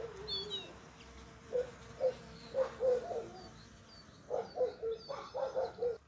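Birds calling outdoors: a low note repeated in quick series, a few notes a second, with faint high chirps from small birds.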